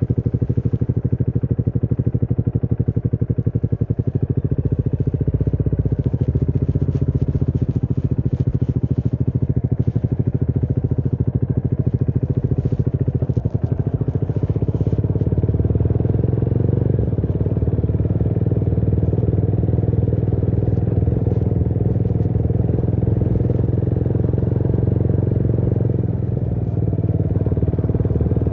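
Motorcycle engine running steadily under way, with a short dip in level about halfway through and another near the end.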